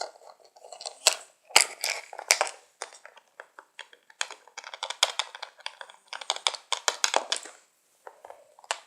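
Small plastic toy pieces being handled and moved about: a busy run of clicks, taps and rattles with short pauses.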